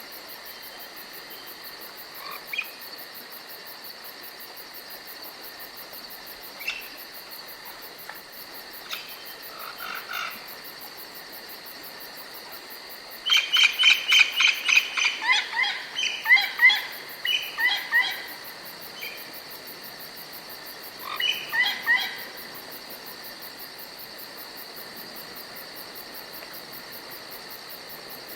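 Forest ambience: a steady, high-pitched chorus of insects such as crickets, with songbird calls over it. A few single chirps come early, then about halfway through a bird gives a loud run of rapid repeated notes for several seconds, followed by a shorter burst of calls a few seconds later.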